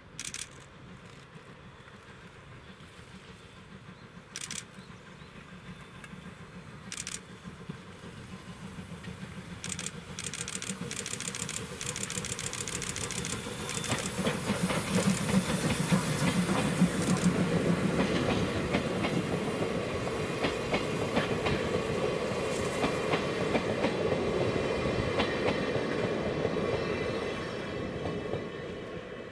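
Train of old-type passenger coaches passing, its wheels clicking in a steady rhythm over the rail joints; it swells as it approaches, is loudest about halfway through, and begins to fade near the end.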